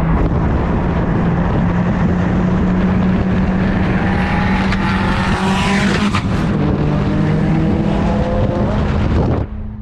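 A car engine running loud and steady, its pitch shifting in the middle. It drops off abruptly near the end, leaving a quieter steady engine tone.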